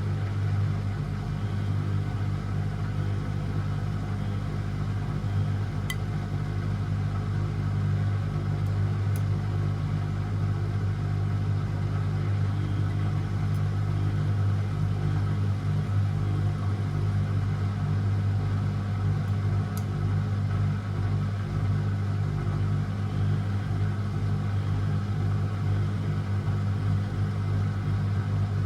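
Beko WMD 46160 washing machine running on a 90°C boil wash: a steady low hum with a few faint ticks.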